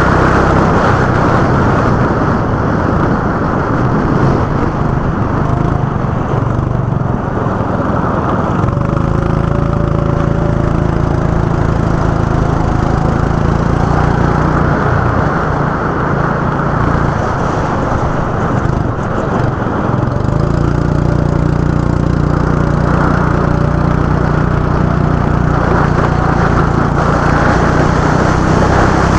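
Go-kart engine running hard. The revs climb and fall again and again, and the engine holds a steadier pitch along two stretches.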